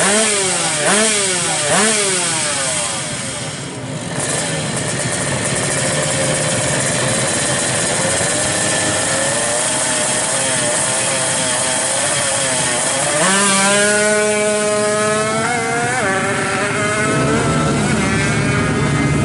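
Two-stroke motorcycle engine with a racing ignition being revved: three quick throttle blips at the start, then held at a steady speed, with the revs climbing again about two-thirds of the way through and one more short blip soon after.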